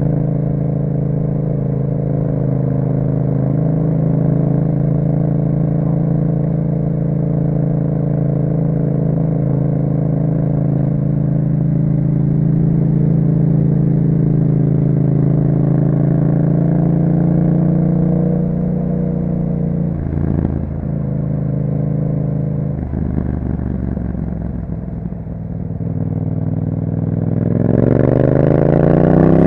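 2021 Yamaha MT-07's parallel-twin engine through an Akrapovic exhaust, riding at a steady speed. After about eighteen seconds the revs drop and stay low for a few seconds as the bike slows. Near the end the engine revs up hard as it accelerates.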